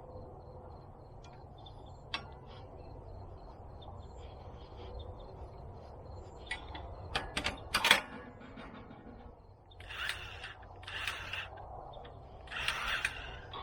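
Cordless grease gun at a tractor loader's grease fitting: scattered clicks and knocks of the coupler and gun being handled, one sharp click near the middle, then short bursts of the gun's pump running near the end.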